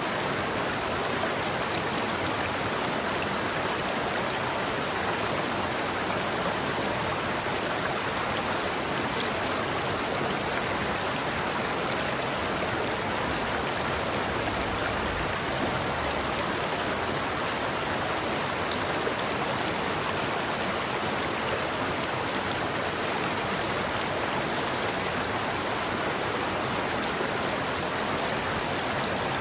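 River water flowing over rocks, a steady unbroken rushing.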